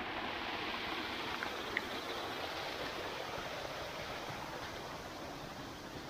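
Steady rush of flowing water from a cloud-forest stream or waterfall, with a couple of faint, brief high chirps in the first two seconds.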